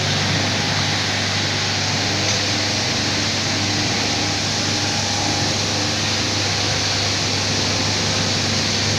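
A machine running steadily: a constant low hum under a loud, even hiss that does not change.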